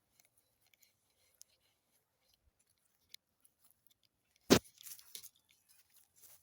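A single sharp knock about four and a half seconds in, followed by a few soft crackles. Otherwise the sound is very quiet, with only tiny faint clicks.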